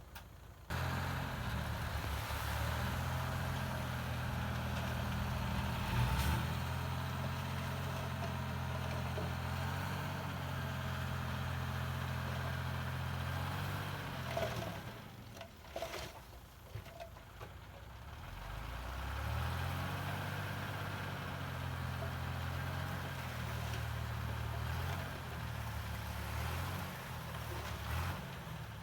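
Heavy diesel earthmoving machinery engine running steadily. It eases off about halfway through, with a few clanks, then rises again and runs on until near the end.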